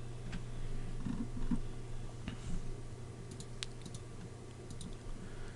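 A few scattered, faint clicks of a computer mouse and keyboard over a steady low hum.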